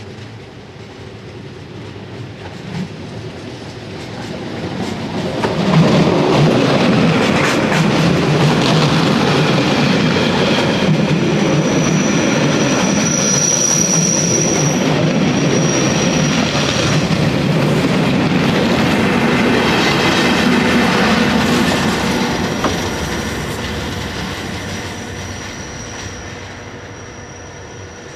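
BVZ metre-gauge electric passenger train approaching, passing close by and drawing away, with its wheels running loudly on the rails. As the cars go by on the curve, a thin high wheel squeal rises over the running noise.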